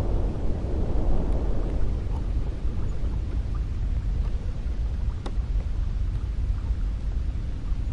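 Cold wind blowing steadily with a deep low rumble; a gust eases off over the first couple of seconds, and a few faint ticks sound through it.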